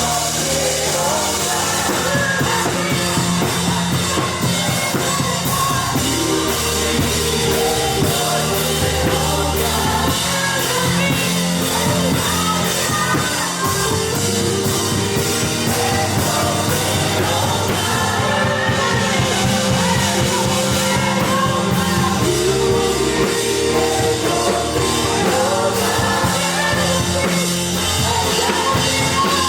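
Live worship music: a band with drums plays while voices sing over it.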